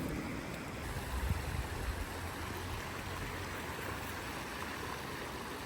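Steady rushing of a flowing river, an even noise, with some low rumbles in the first couple of seconds.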